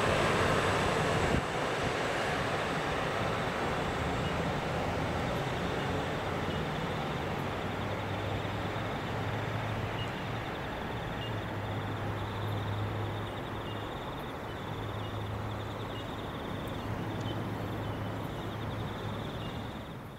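Diesel train running by on the main line: a steady rush of wheels on rail with a low engine hum that grows stronger in the second half. It eases off gradually and cuts away at the end.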